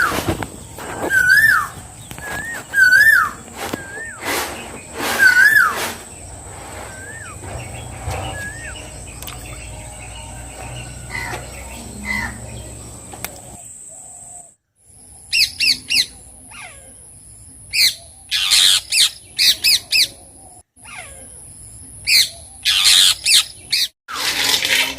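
Birds calling: a short hooked chirp repeated about once a second through the first six seconds, over a steady high-pitched whine. After a brief drop-out about 14 seconds in, quick clusters of sharper chirps over another steady high whine.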